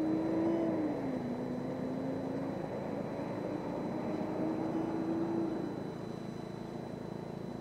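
Motorbike engine running under way, its pitch rising and falling with the throttle, then settling lower near the end as the bike slows, over a steady rush of wind and road noise.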